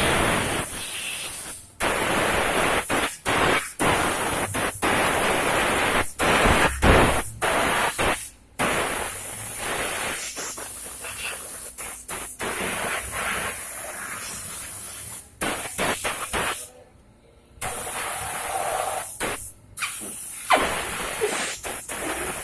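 High-pressure water spray from a car-wash pressure washer, in long bursts that cut off abruptly and start again many times.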